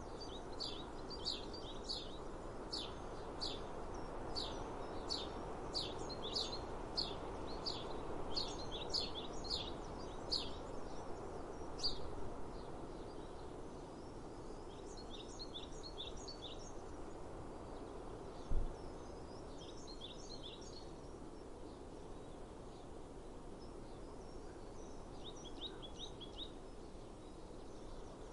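Small songbird chirping, a quick series of high short notes about twice a second for the first twelve seconds, then in short runs of chirps, over a steady outdoor background hum. A single low thump about two-thirds of the way through.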